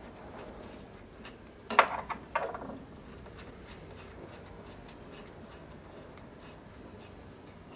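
Two sharp knocks about half a second apart, each with a short ringing tail, over faint scattered ticking and rubbing.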